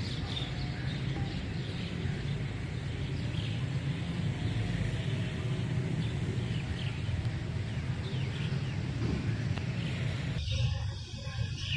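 Birds chirping over a steady low rumble of a diesel locomotive approaching in the distance; the chirping drops out near the end.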